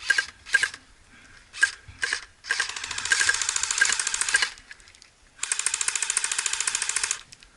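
Electric airsoft gun firing on full auto: a few short bursts, then two long rapid bursts of about two seconds each.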